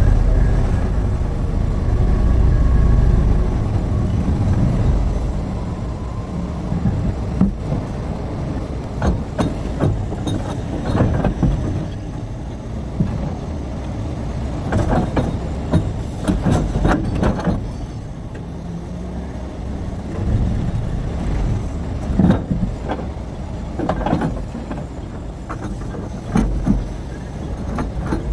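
Terex RH30F excavator's diesel engine running under load, with knocks and clatters of stone coming in several bursts as rock is loaded.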